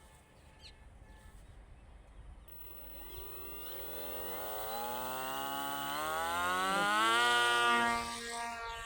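Small brushless electric motor driving a propeller, spinning up: a whine that climbs steadily in pitch and loudness over several seconds, then drops back a little near the end as the throttle eases.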